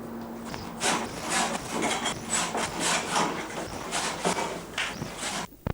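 Rhythmic scraping strokes, about two to three a second, which stop abruptly near the end.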